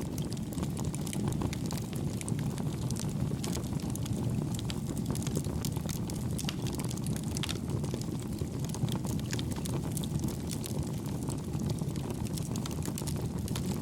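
Campfire burning steadily: a low rumble of flames with soft, scattered crackles and pops.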